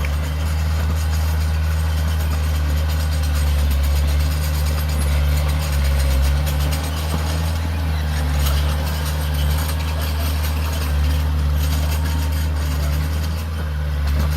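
Heavy diesel engine of earth-moving machinery running steadily at a low, even pitch.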